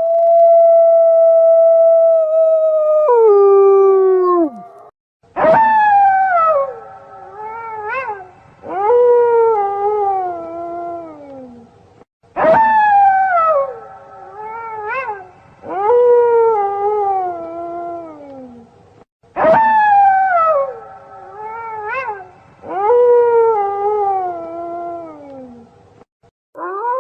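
Wolves howling: a long held howl that drops away in pitch, then a phrase of sliding howls, each starting with a sharp rise and falling off, repeated the same way three times about seven seconds apart. A second, steadier howl holds underneath at times.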